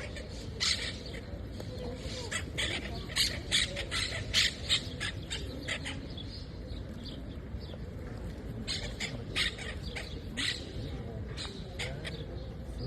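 Pet parrot making short, high chirps and squawks in quick clusters: a run in the first five seconds and another from about nine to eleven seconds in.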